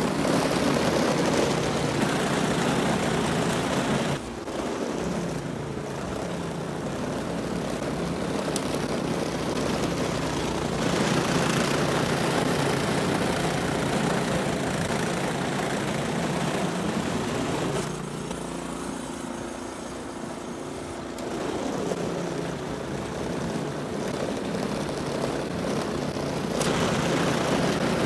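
Snowblower engine running steadily under a broad rushing noise, its pitch and level dipping about four seconds in and again for a few seconds past the middle.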